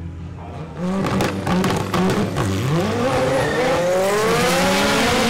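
Turbocharged 4G63 four-cylinder of a 1997 Mitsubishi Eclipse drag car launching down the strip: a run of sharp cracks about a second in, then the engine revving with its pitch climbing steadily, dipping once at a gear change.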